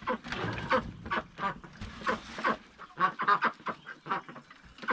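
Ducks quacking repeatedly in quick runs of short calls, with a rough noise underneath during the first half.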